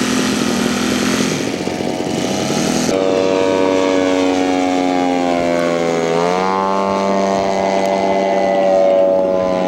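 Radio-controlled scale model airplane's piston engine running, with a close, steady propeller drone. The sound changes abruptly about three seconds in, and about six seconds in the pitch dips and then climbs again as the throttle is worked.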